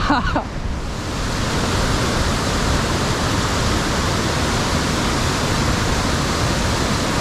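Creek rapids rushing: a steady, even hiss of white water, holding level after a change just before the first second.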